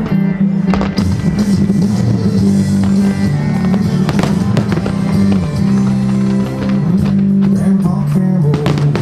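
Fireworks shells bursting in a string of separate bangs over loud music that holds long, low notes.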